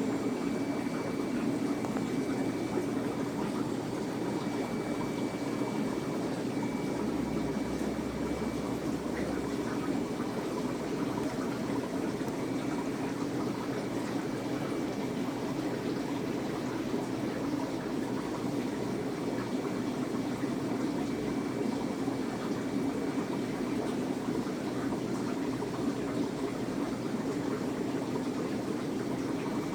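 Steady rush of circulating water in a 240-gallon home aquarium, from its pumps and filtration.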